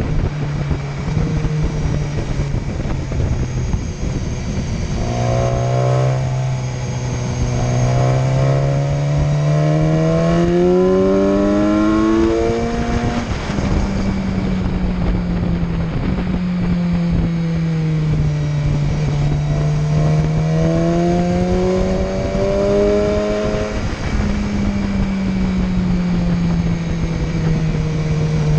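Motorcycle engine heard from the bike being ridden, over a steady rush of wind. Its pitch climbs for several seconds about a fifth of the way in, drops suddenly around the middle, then sinks and rises again twice as the throttle is eased and opened.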